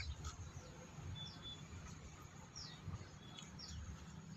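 Faint bird chirps, a few short calls falling in pitch, over a low background rumble.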